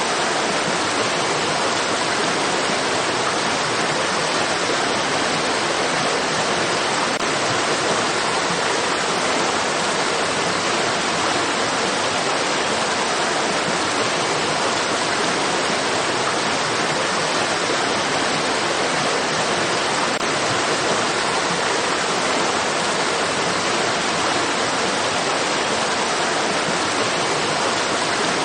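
Running water from a stream or small waterfall: a steady, even rush that does not change.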